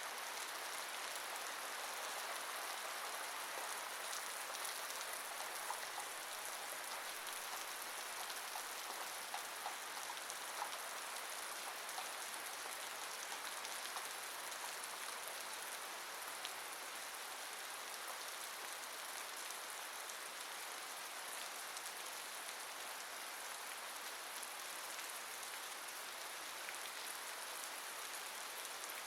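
Steady rain falling, an even hiss with a few sharper individual drop ticks now and then.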